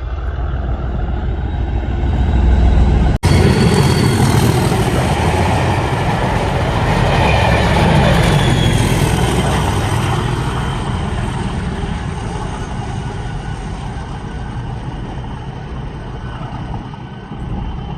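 Train hauled by a Class 37 diesel locomotive passing close by, engine rumble and wheels on rail building to their loudest several seconds in, then slowly fading as it moves away. There is a momentary cut-out about three seconds in.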